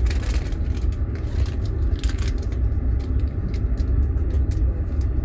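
Passenger train running, heard from inside a platzkart sleeper car: a steady low rumble with irregular light clicks and rattles.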